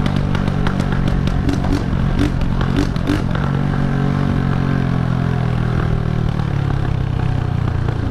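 Honda CG 125's single-cylinder four-stroke engine running loud through a straight-through exhaust with no muffler while being ridden, with a run of sharp cracks in the first three seconds and the engine note easing down a little around the middle.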